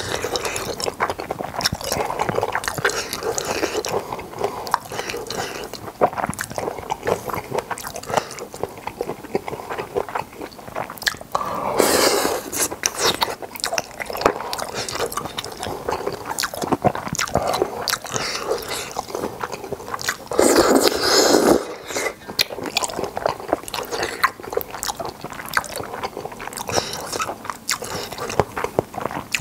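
Close-miked eating of spicy boneless chicken feet with glass noodles: steady wet chewing and biting with many small clicks. Two louder stretches of about a second each, one about twelve seconds in and one about twenty-one seconds in.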